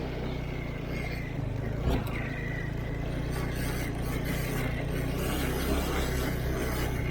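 Vehicle engine running steadily at low revs, with one sharp knock about two seconds in.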